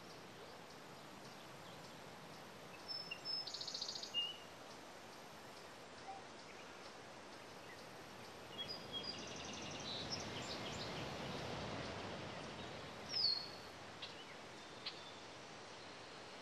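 Songbirds calling over a faint steady outdoor hiss: short high chirps about three and four seconds in, another cluster around nine seconds, and a quick falling call near thirteen seconds. The background hiss swells a little in the middle.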